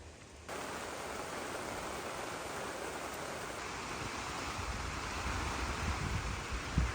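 Heavy rain falling in a steady hiss, which jumps louder about half a second in. Irregular low buffeting rumbles join it in the second half.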